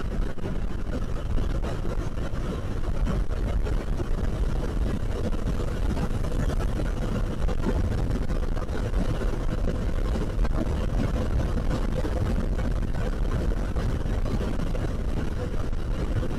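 KTM Duke 390 single-cylinder engine running steadily while riding, under a constant rush of wind noise with a strong low rumble.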